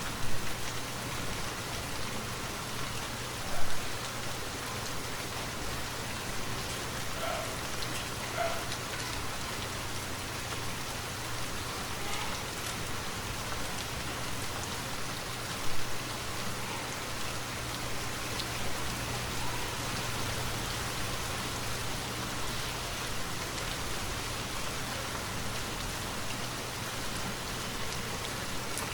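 Steady rainfall, an even continuous patter, with a few louder sharp drop hits standing out about 3.5 seconds and 16 seconds in.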